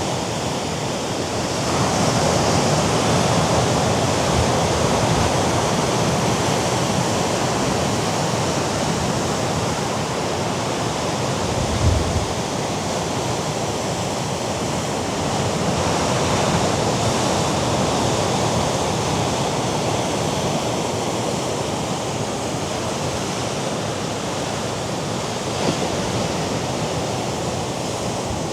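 Sea surf breaking against a rocky shore, a steady wash of noise that swells twice, mixed with wind. A brief low thump comes about halfway through.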